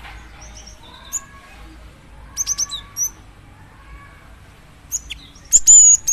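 Cinereous tit (gelatik batu) giving sharp, high chip calls: single notes here and there, a quick cluster of three or four about two and a half seconds in, and a louder, longer call near the end. It is a female calling to a male.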